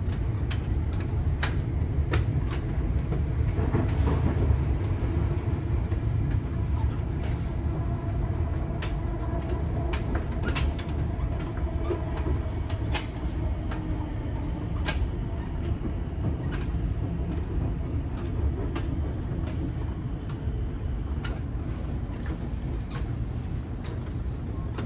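Melbourne Metro suburban electric train running, heard from inside the carriage: a steady low rumble with scattered sharp clicks from the wheels over the track.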